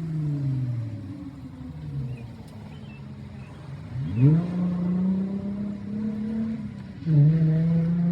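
A rally car's engine slowing with falling revs, then accelerating hard about four seconds in, with a quick dip and climb again near the end as it shifts up a gear.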